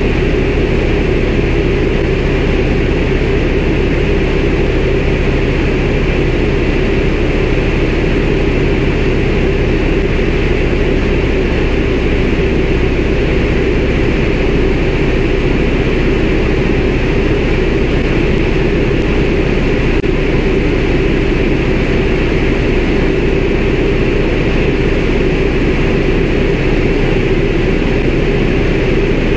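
The nine-cylinder Pratt & Whitney R-985 Wasp Junior radial engine and propeller of a CAC Winjeel running steadily in flight, heard from inside the cockpit.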